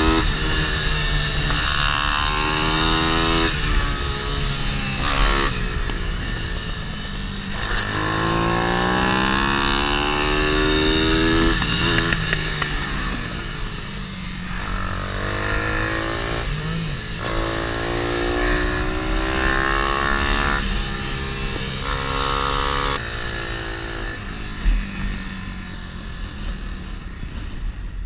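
Small single-cylinder pit bike engine (MRF 140) revving hard on a kart track. The pitch climbs, drops at each gear change or throttle lift, then climbs again every second or two, and settles to lower revs near the end.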